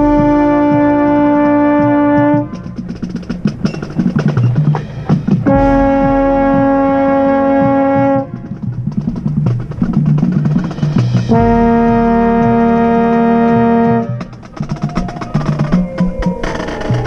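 High school marching band playing: three long held brass chords, each a step lower than the one before, with the baritone horn close by, and snare and drum strokes filling the gaps between them.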